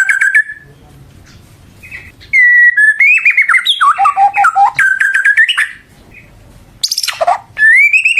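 White-rumped shama singing loudly in rapid whistled phrases of rising and falling notes, with pauses of a second or two between phrases. There is a short harsh falling note about seven seconds in.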